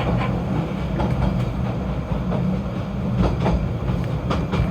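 Snowdon Mountain Railway rack-railway train running: a steady low rumble with irregular clicks and knocks from the wheels and track.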